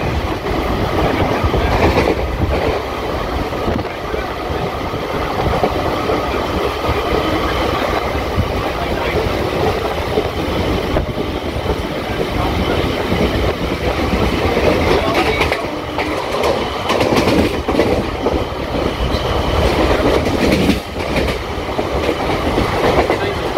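Suburban electric local train running at speed, a steady rumble with the wheels clattering over rail joints.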